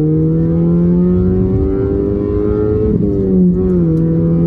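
Toyota Yaris T-Sport's four-cylinder petrol engine pulling hard in gear on a straight run, heard from inside the cabin. The revs climb steadily, then drop about three seconds in at an upshift and pick up again in the next gear.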